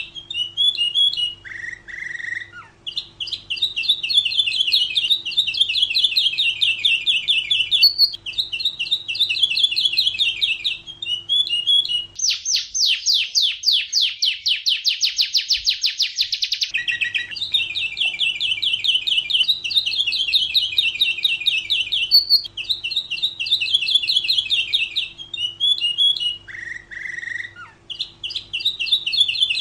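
Domestic canary singing: long runs of rapid trills broken by short chip notes. About twelve seconds in comes a louder, faster rolling trill that lasts about four seconds.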